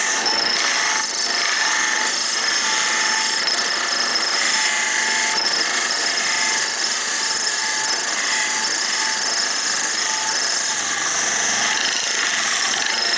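Wood lathe running while a turning tool cuts into the spinning wooden blank, a steady scraping hiss. The cut is deep and close to parting the piece off.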